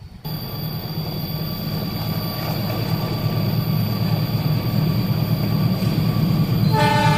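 An approaching train, its low rumble growing steadily louder, with the locomotive's horn starting to sound just before the end.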